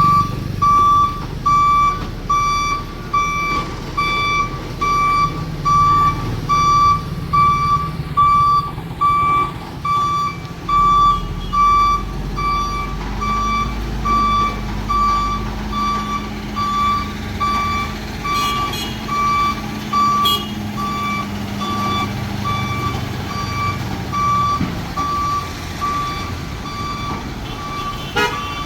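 Truck reversing alarm beeping steadily, about one and a half beeps a second, over the low running of the truck's engine.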